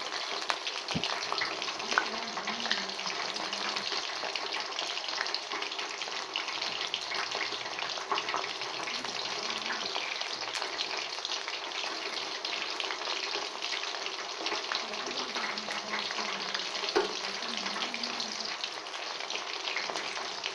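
Chicken pakoras deep-frying in hot oil in a steel wok: a steady, dense sizzle and crackle of bubbling oil.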